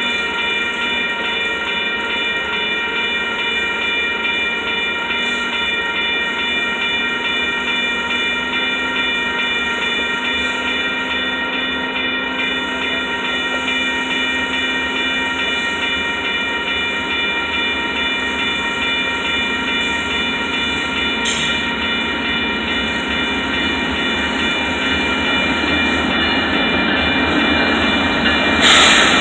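Union Pacific diesel freight train approaching: the locomotives' rumble grows louder over the last few seconds as the lead unit, a GE ES44AC, comes alongside. Steady high ringing tones run throughout, with a short loud burst of noise just before the end.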